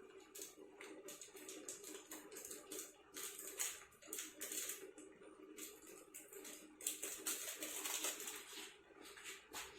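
Irregular scraping and clicking of kitchen utensils, over a steady low hum.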